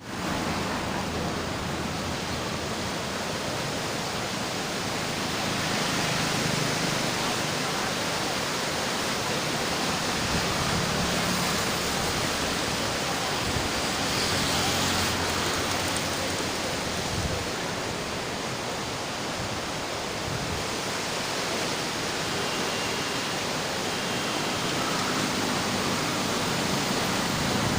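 Steady rushing noise of the Ganga's fast floodwater, the river running high in flood.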